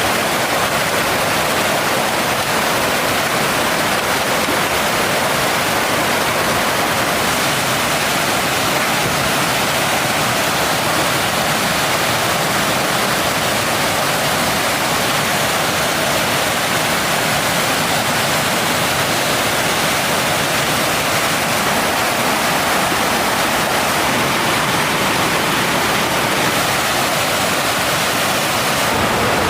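Mountain stream rushing, a steady, unbroken hiss of fast-flowing water.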